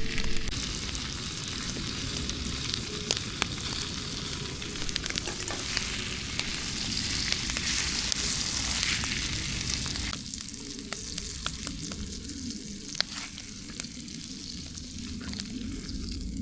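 Ribeye steak sizzling in a pan with garlic and herb butter, a steady frying hiss with scattered sharp pops. The sizzle drops off noticeably about ten seconds in.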